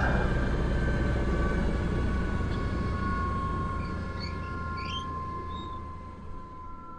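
Airbus AS350 B3 helicopter's turboshaft engine and rotor heard from the cockpit: a low rumble under a high whine that slowly falls in pitch while the whole sound fades steadily, as the machine winds down. A few faint chirps are heard about four to five seconds in.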